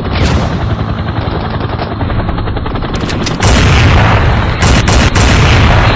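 Motorcycle exhaust popping and crackling rapidly as the engine is revved, like machine-gun fire, getting louder about three and a half seconds in.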